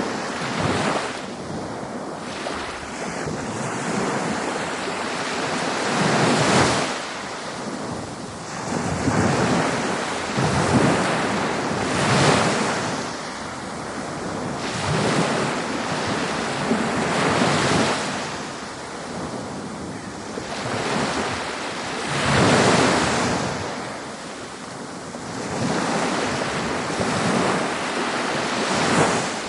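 Ocean waves breaking and washing up a beach, a steady hiss of surf that swells and falls back roughly every two to five seconds.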